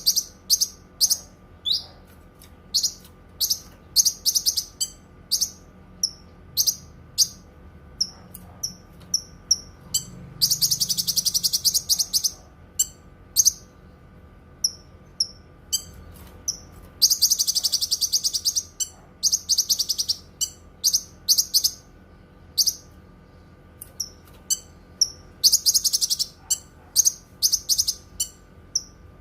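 Cucak kinoi singing: a string of short, high chirps broken by rapid, buzzy trills about ten seconds in and again about seventeen seconds in, with a shorter trill near the end. A faint steady hum runs underneath.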